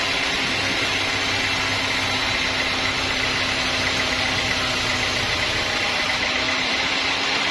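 Sawmill machinery running steadily: an even engine-like hum with a broad hiss and no cutting strokes or impacts.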